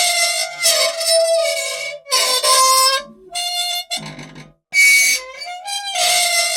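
Squeaky old machine, unoiled metal parts squealing: a run of loud, reedy squeaks, some sliding in pitch, in a cycle that repeats about every six seconds.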